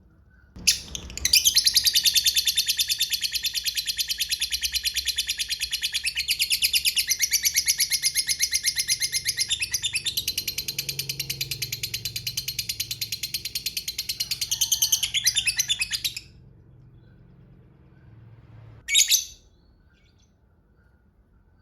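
Lovebird giving a long, loud, rapid chattering trill, the prized 'ngekek panjang', lasting about fifteen seconds. A single short shrill call follows a few seconds later.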